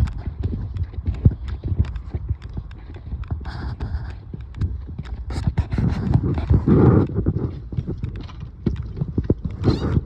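Footsteps walking through snow, a steady run of short thuds.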